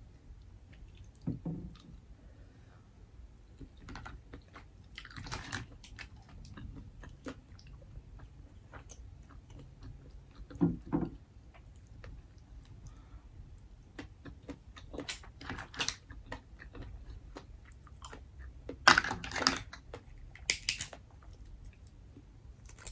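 Close chewing and wet mouth sounds of steamed black mussels being eaten, with scattered clicks of the shells being pried open and handled. A few louder bursts of chewing stand out, the loudest near the end.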